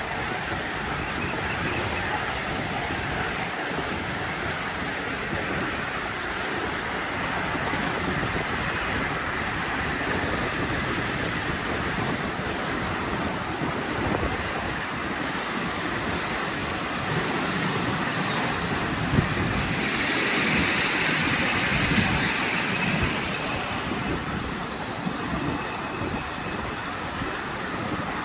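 Miniature ride-on railway train running along its track: a steady rumble and rush of wheels on rail, with a couple of sharp clicks a little after the middle.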